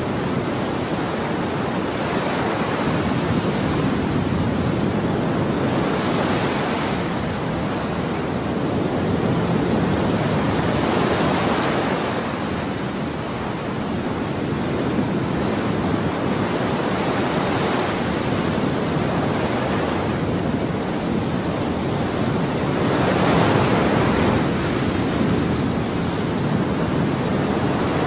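Ocean waves breaking on a shore in a continuous rush of surf, each wave swelling and washing back every few seconds.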